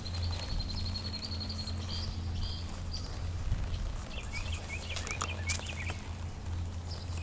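Birds chirping over a steady low outdoor rumble. A thin high trill runs through the first two seconds, and a string of short chirps comes about four to six seconds in, with a few faint clicks among them.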